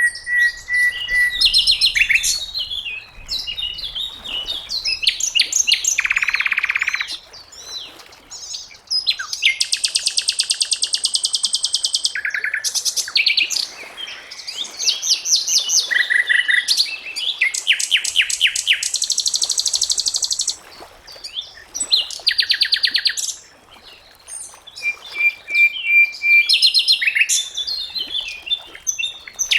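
Sikatan londo, a songbird of the flycatcher family, singing a long, varied song. Fast trills and dry rattling runs of rapid notes alternate with short, steady whistled notes, with brief pauses between phrases.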